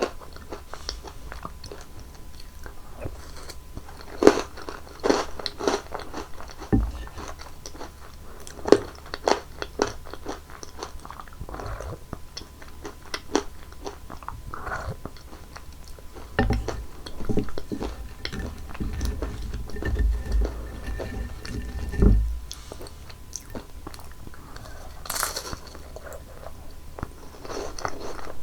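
Close-miked biting and chewing of crunchy chocolate candy: sharp crunches, thickest in the first third, then softer chewing with a few low thuds and one loud crunch near the end.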